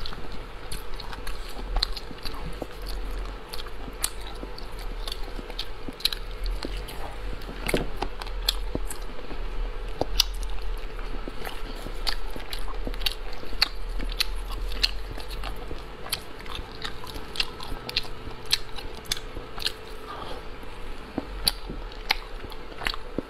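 A person chewing and biting food close to a clip-on microphone, with many short wet clicks and smacks from the mouth.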